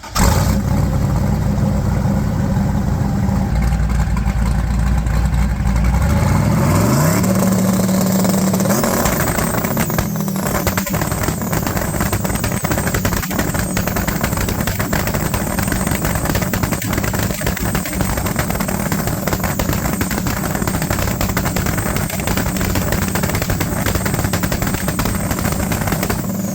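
Turbocharged drag car engine held on its two-step launch limiter. It runs for a few seconds, the revs climb about seven seconds in, and it then stutters on the limiter with a rapid, rowdy crackle of exhaust pops.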